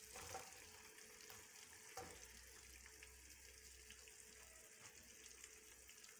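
Faint, steady sizzling of mutton cooking in a wok, with two soft thumps, about half a second and two seconds in, as tomato halves drop onto the meat.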